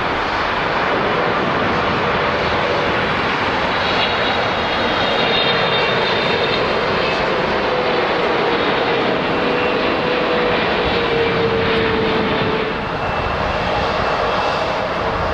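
Boeing 777 freighter's GE90 turbofan jet engines on landing: a steady, loud roar with a faint whine that drops slightly in pitch about two-thirds of the way through.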